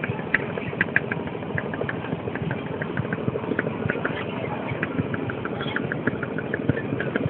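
A barge's engine running steadily, with a fast, irregular clatter of sharp ticks over its drone.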